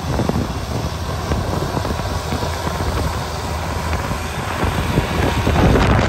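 Strong blizzard wind buffeting the microphone, with a tractor engine running steadily underneath; the wind grows louder near the end.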